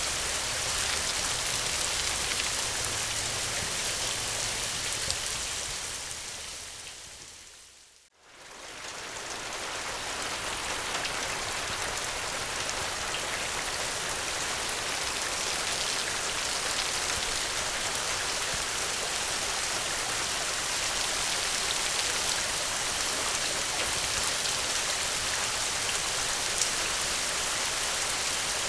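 Steady rain falling, with a fine patter of drops. About eight seconds in it fades away to near silence and swells back up within a couple of seconds, then carries on evenly.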